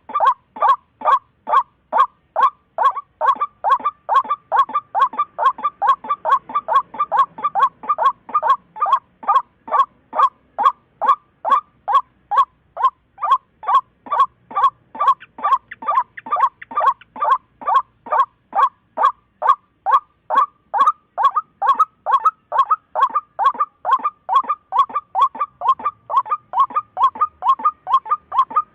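Waterhen calling one short note over and over, about three a second, at an even pitch without a break.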